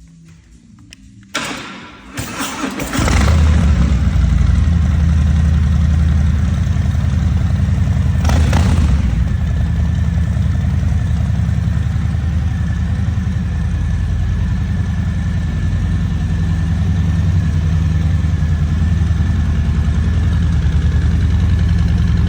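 Harley-Davidson Breakout 114's Milwaukee-Eight 114 V-twin with a customized exhaust being started: the starter cranks about a second in, and the engine catches about three seconds in and settles into a loud, steady idle.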